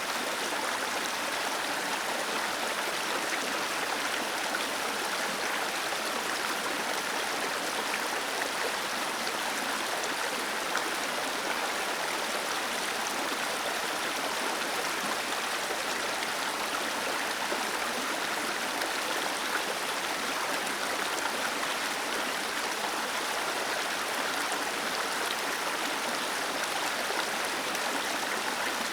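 Small waterfall cascading down into a stream, a steady even rush of falling water.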